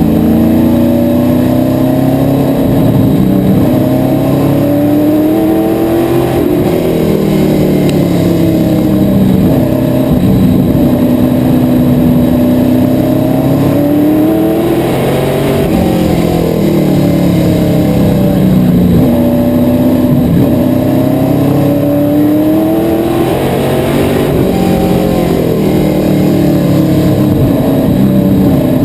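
Asphalt modified race car engine at racing speed, its pitch rising under throttle and falling as it lifts, over and over, lap after lap.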